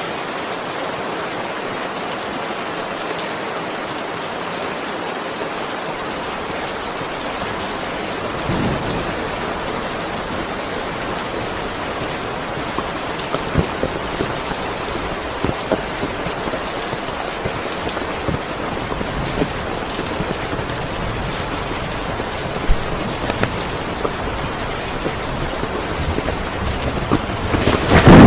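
Heavy rain falling steadily, an even hiss with occasional sharper taps of drops hitting a surface. Thunder begins to rumble loudly in the last moment.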